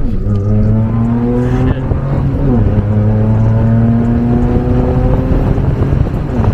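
Audi S4 engine heard from inside the cabin, accelerating hard. Its pitch climbs steadily and drops sharply at each gear change, at the start, about two and a half seconds in, and near the end.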